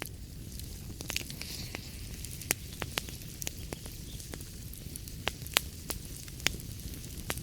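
Wood fire in a fireplace crackling: irregular sharp pops and snaps over a steady low rumble and a soft hiss.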